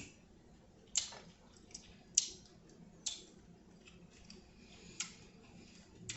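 Close-up eating sounds of someone chewing seafood: sharp, wet mouth smacks and clicks, about six of them spread a second or so apart, over a quiet background.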